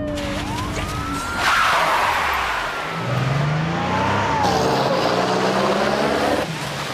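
A police car driving off fast, its engine revving up with tyres squealing and skidding.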